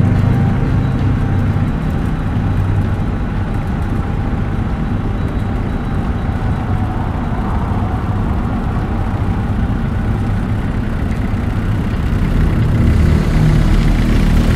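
Engine of an old truck or van running steadily as it drives along. Near the end the engine note changes as the vehicle slows toward a stop.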